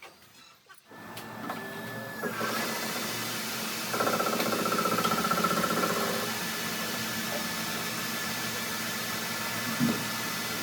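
A machine starts up about a second in and runs steadily, with a high whine over the noise; it is louder for a couple of seconds near the middle, and there is a single knock near the end.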